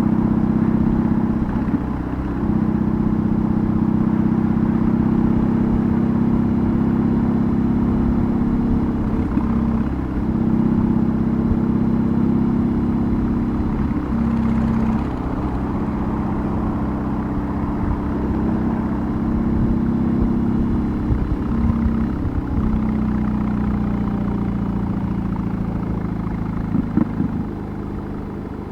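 BMW R18's 1.8-litre air/oil-cooled boxer twin running under way through an aftermarket exhaust, a steady low drone broken by several brief dips as the throttle is eased for gear changes. A few sharp crackles near the end as the engine drops off throttle and the bike slows.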